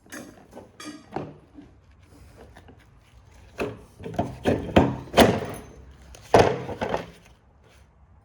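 Knocks and clunks of hard printer parts being handled and set down: a few light clicks at first, then a cluster of sharp knocks about four to seven seconds in.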